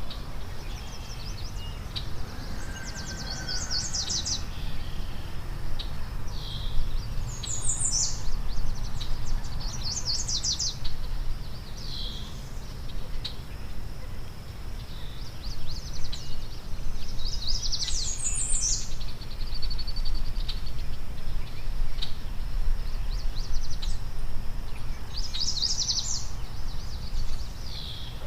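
A songbird singing short, high chirping phrases that recur every few seconds, over a steady low rumble.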